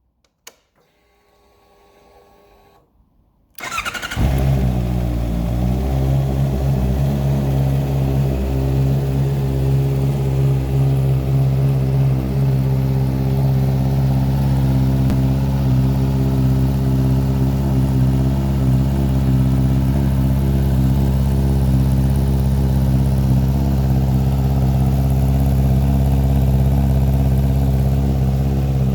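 A 2023 Honda CBR650R's 649cc inline-four, with an Akrapovic exhaust, is started about three and a half seconds in after a faint whine. It catches at once and settles into a steady idle.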